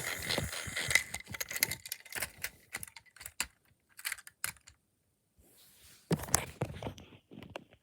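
Irregular clicks and light rattles of small hard objects being handled, with a near-silent pause of about a second and a half past the middle.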